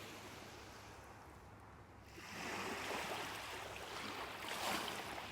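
Small waves washing on a lakeshore: a soft rushing of water that swells about two seconds in and peaks near the end.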